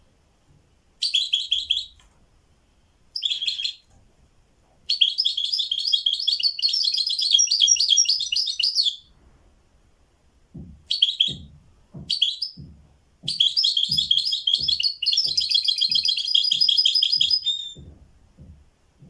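A songbird singing in bursts of quick, high notes, including two long trilling phrases of several seconds each. From about halfway through, a soft low knocking comes roughly twice a second underneath.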